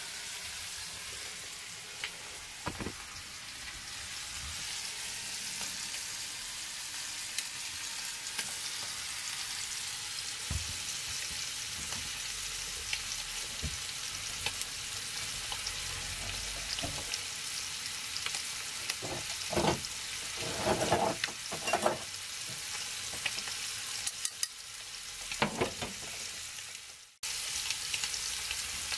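Chicken pieces sizzling steadily in a frying pan over a gas burner. There are a few short knocks and clatters about two-thirds of the way through.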